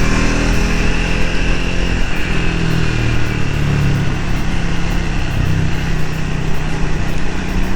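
Triumph Speed 400's single-cylinder engine running as the bike rides along, its pitch shifting a little with the throttle, over a steady rush of wind and road noise.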